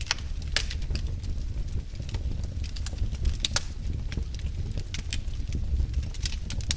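Wood fire burning in a fireplace, crackling with irregular sharp pops and snaps over a steady low rumble of the flames; the strongest pops come just after the start and about three and a half seconds in.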